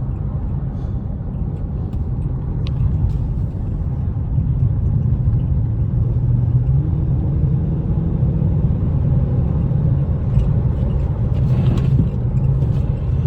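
Dodge Charger R/T's V8 and road noise heard from inside the car while driving: a steady low rumble that gets a little louder about four seconds in.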